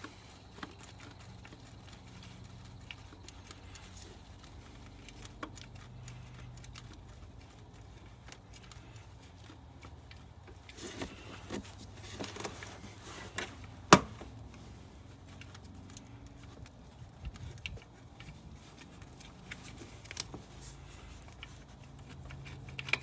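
Scattered light clicks and clinks of hand tools and metal parts being handled while working on a car's alternator, with one sharp knock about two-thirds of the way through.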